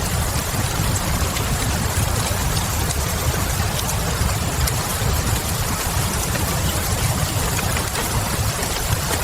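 Steady rain with a deep low rumble underneath and a few faint crackles of a wood fire in a fireplace.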